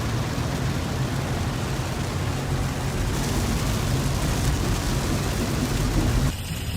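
Steady roar of a heavy rainstorm downpour, cutting off suddenly near the end.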